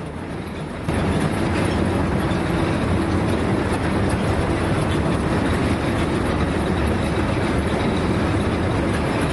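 Loaded lorry under way: steady engine and road rumble heard from the cab, which steps up in loudness about a second in.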